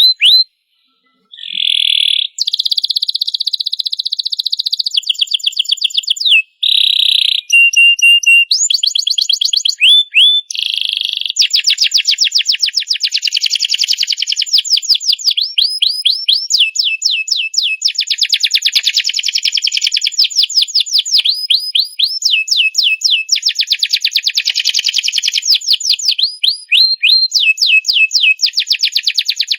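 Domestic canary singing in full song: long rolls and trills, each phrase a fast run of the same high note repeated many times, switching from one trill to the next. There is a brief pause about a second in.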